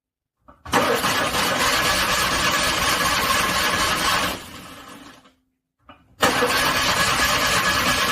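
Car starter cranking a cold engine in two attempts. Each begins with a short click, and the first runs about three and a half seconds before fading out without the engine catching. A second crank starts about six seconds in.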